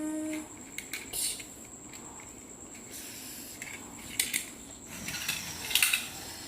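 Plastic toy vehicles clicking and clattering as they are handled and knocked against each other, a few scattered knocks with a short rattle near the end. A child's hummed engine-like tone trails off about half a second in.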